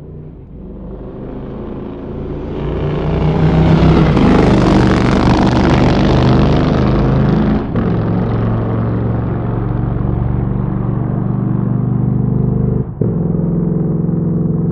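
Motorcycle engine building up from quiet to loud over the first few seconds, then running steadily, with two brief drops in sound about eight seconds in and near the end.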